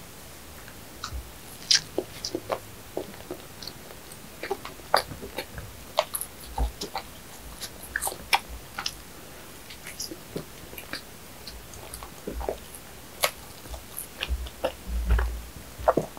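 Close-miked chewing of soft bread: irregular wet mouth clicks and smacks as bites of a filled bun are worked, with a few dull low thumps near the end.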